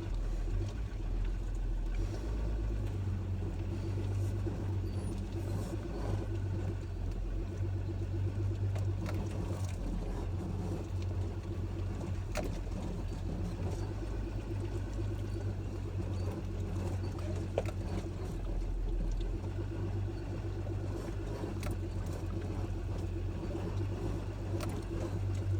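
Ram pickup's engine running just above idle as the truck crawls a rocky trail in four-wheel drive: a steady low drone, with scattered short knocks and rattles over it.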